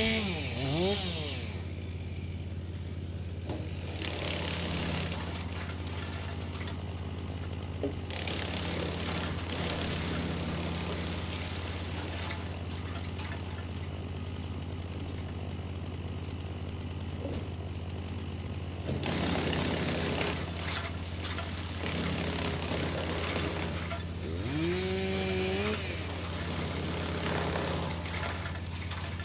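Wood chipper running with a steady engine drone while wood is fed through. Several spells of grinding, crunching chipping noise come and go. The engine pitch drops right at the start and climbs back up again near the end, as the machine takes the load.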